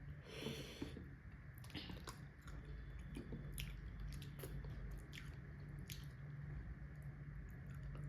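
Close-up chewing of a mouthful of food, with irregular wet mouth clicks and smacks and a short crunchy burst near the start. A faint steady low hum runs underneath.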